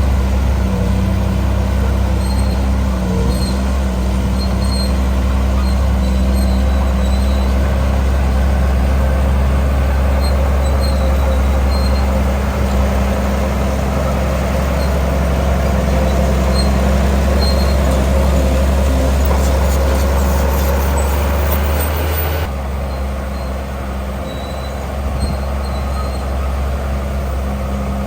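Heavy diesel engine of earthmoving machinery running steadily at work, deep and loud; the sound changes abruptly and drops a little about 22 seconds in.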